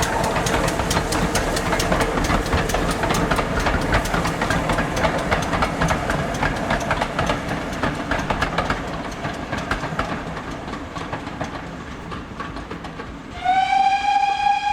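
A Great Western steam tank locomotive and its train running past, a rapid run of clicks and beats fading away. Near the end the engine sounds one long steam whistle blast that slides up slightly at its start.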